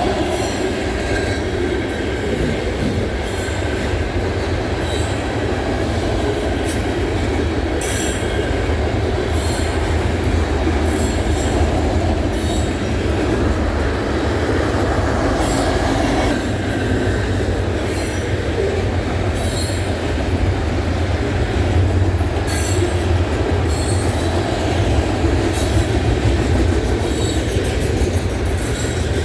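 Loaded trash train passing, its freight cars rolling steadily on the rails with a continuous rumble. Frequent sharp clacks over the rail joints and brief high wheel squeals run through it.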